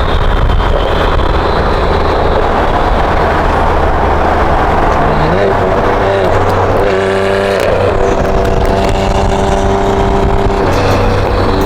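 BMW M twin-turbo straight-six engine running hard under a heavy rush of road and wind noise. About halfway through, the engine's pitch shifts and glides as the revs change, then holds steady.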